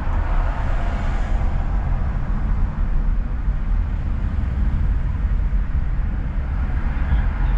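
A car being driven: a steady low rumble of engine and road noise with tyre hiss, the hiss a little louder in the first couple of seconds.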